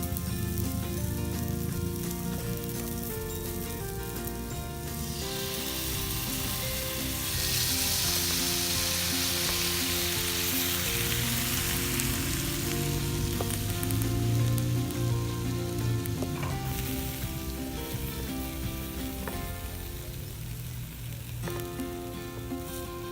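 Thick bison steak sizzling in a campfire frying pan. The sizzle swells a few seconds in and eases off again after about ten seconds, over steady background music.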